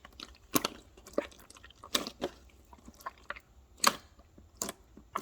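Irregular crisp crunching clicks close to the microphone, about eight of them, each short and sharp, the loudest just before four seconds in.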